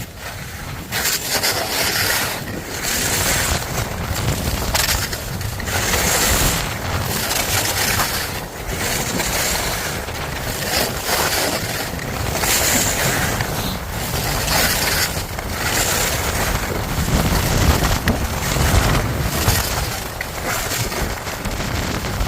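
Wind rushing over the microphone while skiing, with skis hissing and scraping across packed snow in repeated swells as the turns go back and forth.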